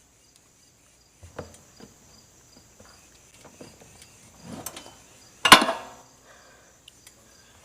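Scattered clicks and knocks of tools and metal parts being handled, with one sharp, loud clack about five and a half seconds in. Crickets chirp steadily in the background.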